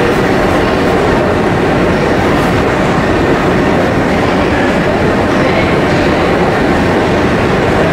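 A train running through a railway station: a loud, steady rumble.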